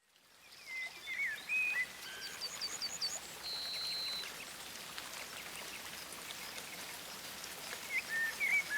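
Small songbirds chirping and singing over a steady hiss of falling water. Twittering chirps come in the first two seconds, then a run of five quick high notes, a held high whistle around the fourth second, and a few more chirps near the end.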